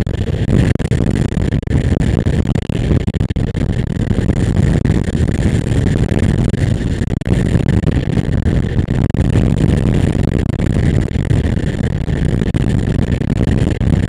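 Motorcycle running while being ridden, a steady dense engine-and-road sound with no marked revving.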